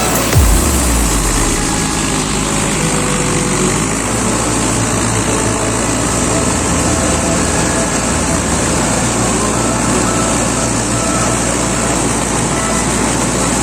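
Mahindra Arjun 605 tractor's diesel engine running steadily under load while working a rotavator in mud, with a brief falling sweep just after the start.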